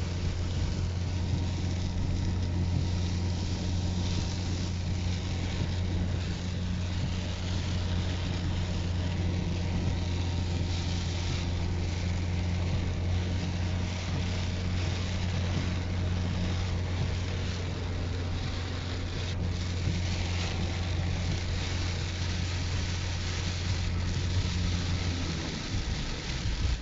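Storm wind blowing across the microphone over a steady low engine-like hum, which stops near the end.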